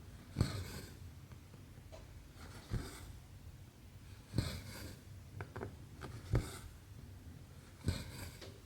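Needle and thread being pulled through 11-count cross-stitch canvas by hand. There are five strokes, each a sharp tap followed by a short rasp of thread drawing through, coming about every one and a half to two seconds, with a few small clicks between them.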